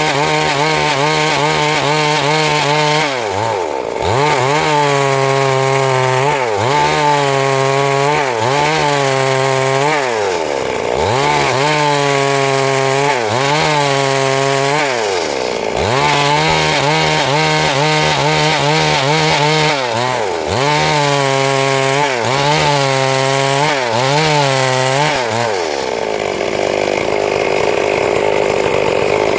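Stihl MS 382 two-stroke chainsaw running at high revs and cutting wood, its engine speed sagging and recovering again and again as the chain takes the load.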